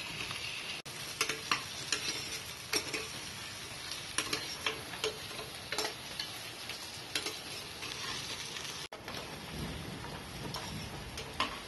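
Pumpkin pieces frying in hot mustard oil in a pot: a steady sizzle with frequent sharp crackles and pops.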